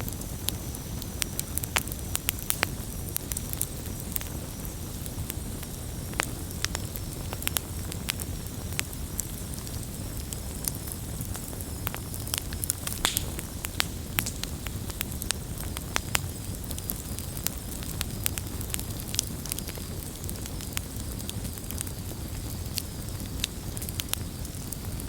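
Campfire burning with a steady low rumble and frequent irregular crackles and pops from the burning wood.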